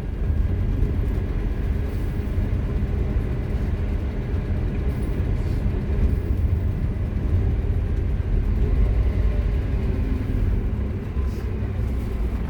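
Scania K230UB Omnilink bus engine, a 9-litre five-cylinder diesel, running with a steady low rumble.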